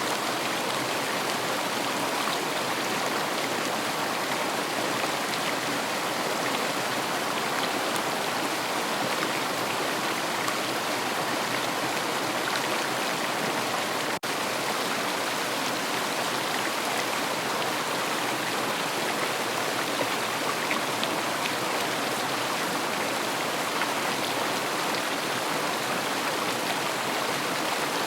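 River flowing: a steady, even rush of water, with a split-second dropout about halfway through.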